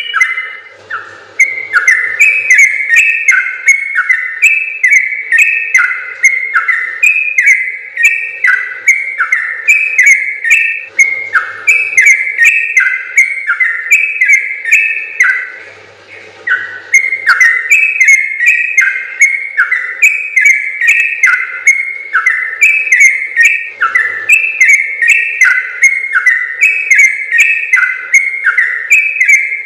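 Trucukan (yellow-vented bulbul) singing a long, fast run of whistled, chattering notes with hardly a break, pausing briefly about a second in and again about halfway through. Sharp high ticks are mixed in throughout.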